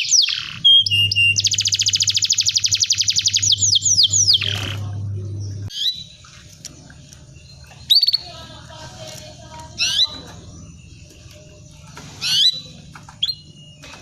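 Canary singing: a fast trill of rapidly repeated notes for the first few seconds, then single sharp, sweeping chirps about every two seconds. A low steady hum runs under the first half and stops about six seconds in.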